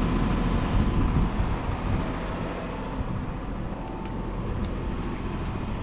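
Steady low mechanical hum of running machinery, easing off slightly about two seconds in.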